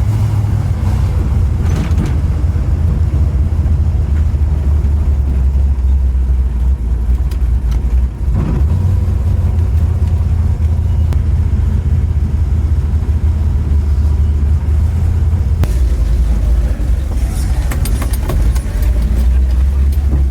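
A car's engine and exhaust rumbling low and steady while driving, with a brief dip in level about eight seconds in.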